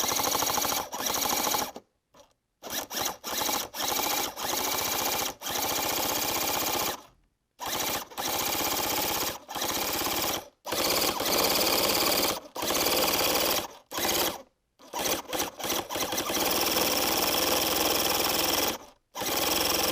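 Small nitro engine of a Traxxas Nitro Vee RC boat being spun over, unfueled, with a fast buzzing whir in repeated bursts of one to three seconds broken by short pauses. The engine turns freely again after a penetrating-oil soak freed it from being seized.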